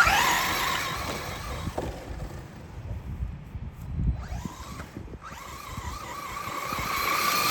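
Electric motor and drivetrain of an RC rally car whining under throttle: a loud burst right at the start that fades away, then a second run from about five seconds in that builds to the end.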